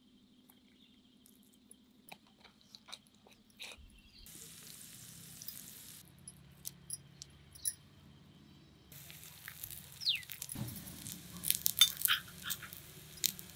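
Small cooking sounds from miniature pans. It opens with light clicks and taps of cauliflower florets and small utensils. Oil sizzles briefly in a tiny pan from about four to six seconds in. A stronger sizzle starts about nine seconds in as sliced onions hit the hot oil in a miniature iron kadai, with sharp crackles and clicks over it near the end.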